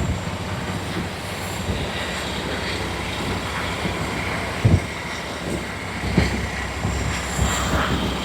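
Steady low rumble of snow removal truck engines working through the snow, with a short thump about halfway through.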